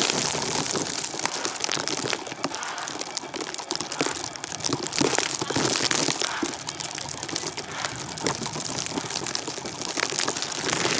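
Blizzard: a steady hiss of blowing snow with dense crackling and crunching throughout.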